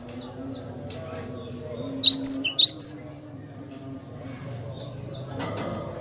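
Cinereous tit (glatik batu) calling: faint high chirps, then a quick run of about four loud, sharp, high chirps about two seconds in.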